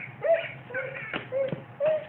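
A young child's voice making about four short, high-pitched sounds, with a few sharp taps among them.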